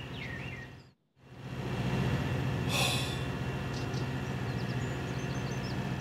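Steady low hum of a train standing still, which drops out briefly about a second in, with a short hiss about three seconds in.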